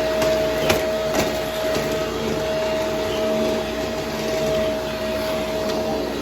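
Brushroll vacuum cleaner running steadily with a high motor whine over the rush of airflow, with two sharp clicks about a second in.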